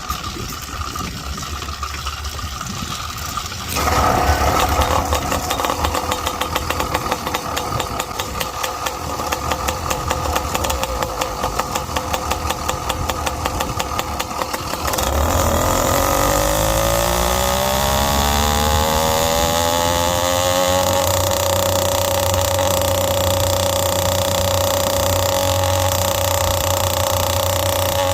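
Zeda YD100 two-stroke engine on a motorized bicycle, breathing through an expansion-chamber pipe. It runs quietly at first and gets louder about four seconds in as the bike pulls away. From about halfway it revs up in a rising whine over several seconds and then holds a steady high note. The carburettor is still set rich, which the owner says makes it four-stroke in the medium-to-top range.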